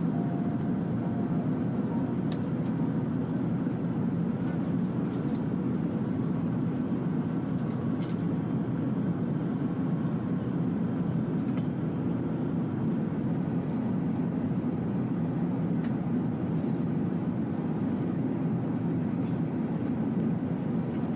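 Airliner cabin noise: the steady drone of jet engines and airflow, even throughout, with a few faint clicks.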